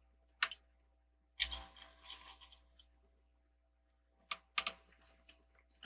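Small plastic Lego bricks clicking and rattling as they are handled and pressed together. There are a few sharp separate clicks, and a longer rattle of pieces starting about a second and a half in.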